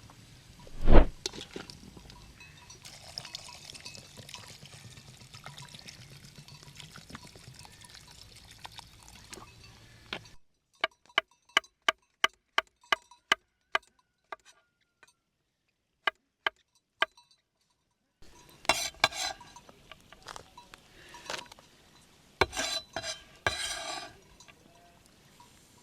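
Cooking sounds from pots and utensils: a heavy thump about a second in, then a run of about a dozen sharp taps, then clusters of metal and glass clinks.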